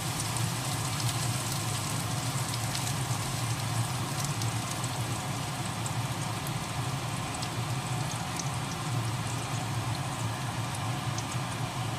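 Oil sizzling in a wok with small bits of food frying, crackling with scattered sharp pops, over a steady low hum.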